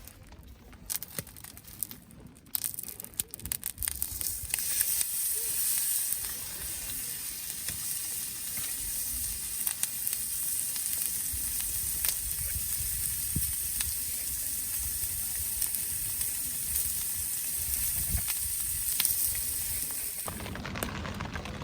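Wood fire in a Solo Stove burning with a steady hiss and scattered sharp crackles; the hiss builds a few seconds in and cuts off abruptly near the end.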